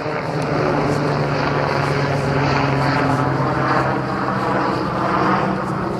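Helicopter flying overhead, its rotor and engine giving a loud, steady hum.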